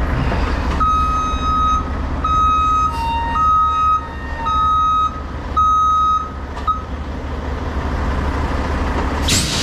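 2023 Mack truck's backup alarm beeping as the truck reverses: about six steady beeps roughly once a second, over the diesel engine running steadily. A short hiss comes near the end.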